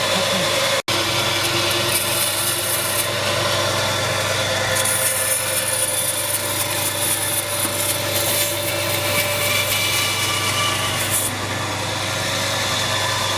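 Saw cutting wood in two stretches of scratchy strokes, over a steady motor hum. The sound cuts out for an instant about a second in.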